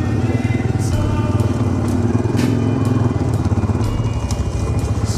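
Motorcycle engine running steadily with a low rumble, with music playing over it and a few short clicks.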